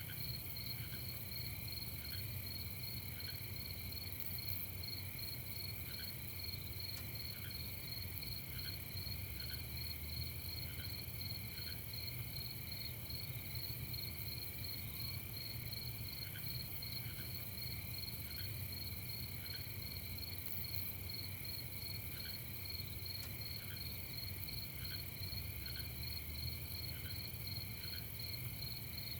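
Crickets chirping in a steady, fast-pulsing night chorus. A lower short chirp sounds about once a second in runs, over a low rumble.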